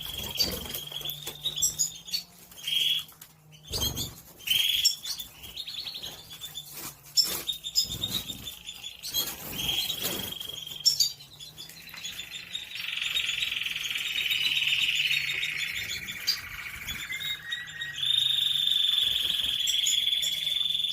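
Belgian canaries singing: chirps and quick trills, then long rolling held notes from about twelve seconds in, and a bright held note again near the end, with scattered sharp clicks among them.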